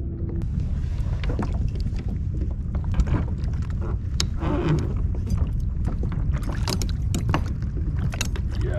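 Wind buffeting the microphone on a kayak at sea as a steady low rumble, with water against the hull and scattered small clicks and knocks of handling.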